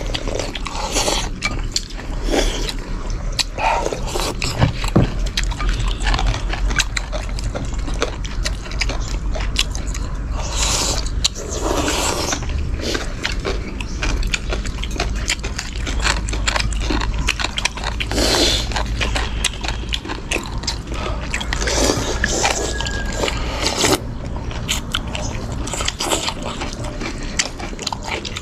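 People eating a noodle-slice meal: chewing, with many short clicks and scrapes of chopsticks and utensils against bowls, over a steady low hum.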